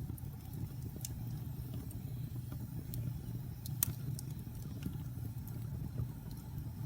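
Fire burning in a fireplace: a steady low rumble of flames with scattered sharp crackles and pops, the loudest a little before four seconds in.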